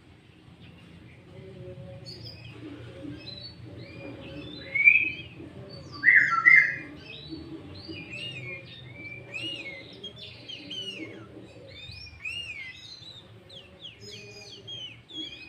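Sooty-headed bulbul singing a rapid, varied run of chirps and whistled notes, its song laced with mimicked green leafbird phrases. The loudest notes come about five and six seconds in.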